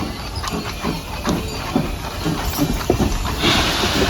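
Narrow-gauge train rolling along with an uneven clatter of knocks from its wheels and cars on the track. A steady hiss starts about three and a half seconds in.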